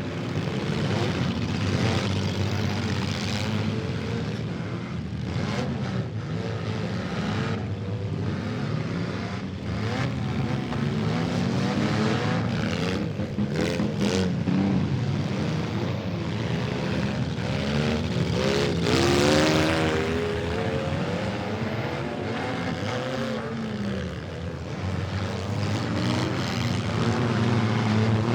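Several demolition derby car engines revving up and down over one another, with a few short knocks among them.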